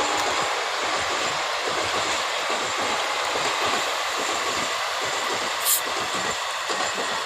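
Passenger coaches of an express train running past at speed: a steady rush of wheels on rail with rapid clickety-clack over the rail joints. A brief sharp hiss comes about six seconds in.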